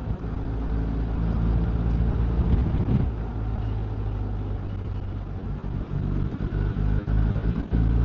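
Motorcycle engine running steadily on the move, a low humming drone under a steady rushing noise.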